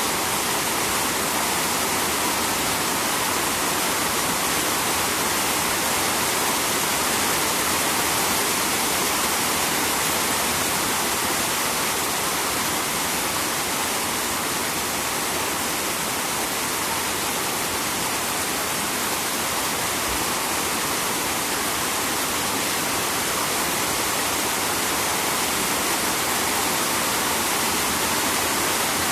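Steady rain falling beside a river, blending with the flowing water into one even, unbroken rushing hiss.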